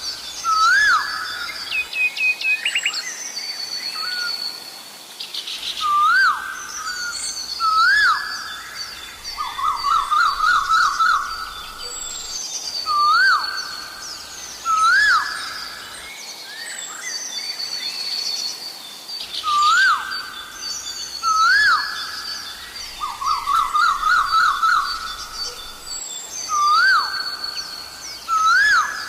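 Asian koel calling: pairs of rising calls alternating with a fast run of repeated notes, the pattern coming round about every seven seconds. Other birds chirp higher up over a faint steady high tone.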